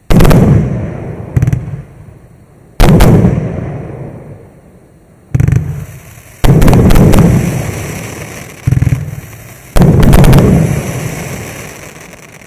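Maxsem MC121 fireworks firing shells: about seven sharp bangs, some coming in pairs about a second apart, each followed by a rumbling, echoing decay over a second or two.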